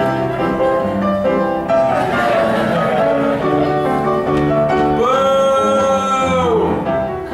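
Piano accompaniment to a show tune, its chords moving in steps, with a singer coming in about five seconds in on a long held note that bends down at its end.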